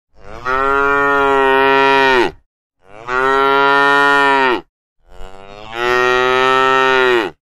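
Cow mooing three times, each a long, even call of about two seconds that drops in pitch as it ends.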